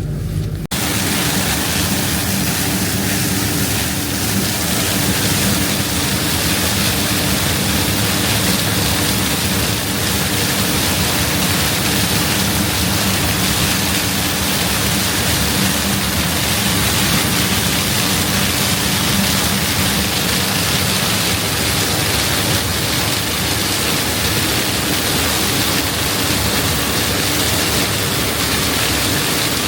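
Combine harvester running while harvesting corn: a dense, steady rushing noise over a constant engine hum. It cuts in abruptly just under a second in.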